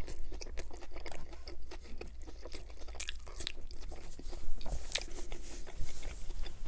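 Close-miked chewing of a mouthful of Whopper Jr. burger: many small wet mouth clicks and soft crunches.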